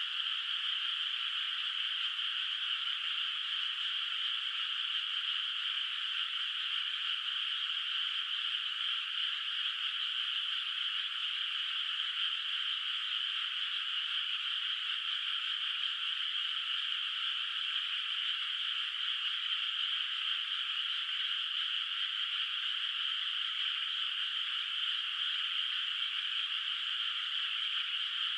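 A dense chorus of many frogs calling together in a flooded rice paddy, merging into a steady, unbroken wall of croaking with no single call standing out.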